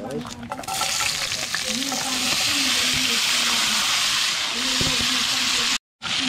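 Chopped vegetables dropped into hot oil in a cast-iron skillet: a loud sizzle starts suddenly about a second in and goes on steadily while they are stirred. The sound drops out for a moment near the end.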